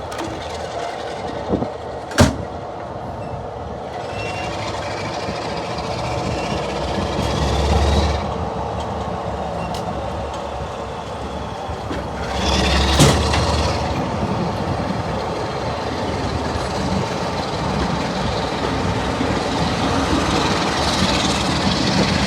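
Diesel-hauled heritage train: a steady rumble and rail noise, with a sharp bang about two seconds in and two louder surges with a deep rumble around eight and thirteen seconds.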